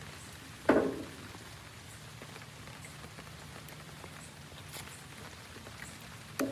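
A single sharp knock with a short ringing tail just under a second in, over a steady low hiss and faint hum, with another knock right at the end.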